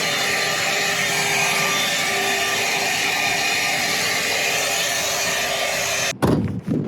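Vacuum cleaner running steadily, sucking up sawdust from cutting through the van's roof paneling; it stops abruptly about six seconds in.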